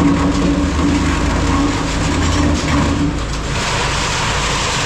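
A large scrap-metal shear running steadily, with a low machine hum and a pitched tone that fades out about three seconds in.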